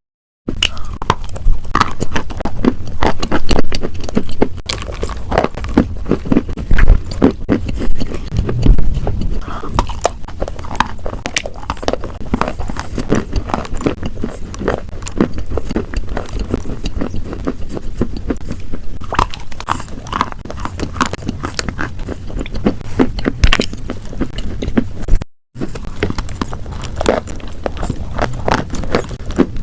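Close-miked ASMR crunching: a dense run of crisp cracks and crackles, several a second. It cuts out briefly twice, at the very start and about 25 seconds in.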